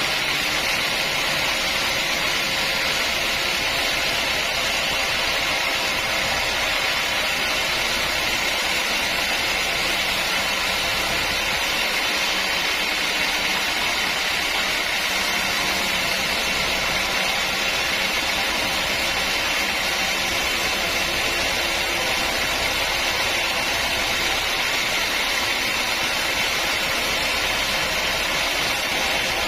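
Sawmill machinery running steadily with a constant noise that holds the same level throughout.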